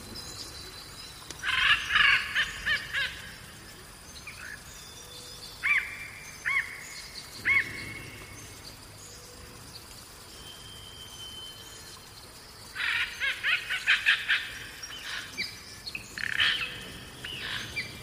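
Songbirds singing: a burst of rapid repeated notes about a second and a half in and another about thirteen seconds in, with scattered single chirps and a short whistle between them.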